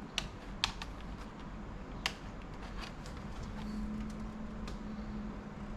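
Light, sharp clicks and taps from handling the laptop's plastic case and parts during disassembly: three clear ones in the first two seconds, then fainter ones.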